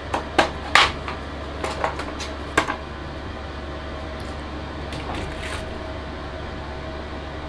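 Metal clinks and knocks as the steel clamp plates of the rear anti-roll bar are handled for measuring: about six sharp knocks in the first three seconds, then only a steady background hum.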